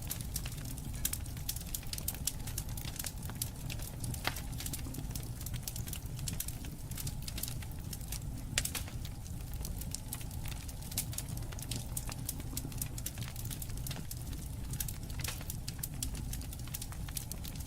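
Campfire crackling, with irregular sharp pops and snaps over a steady low rumble of burning.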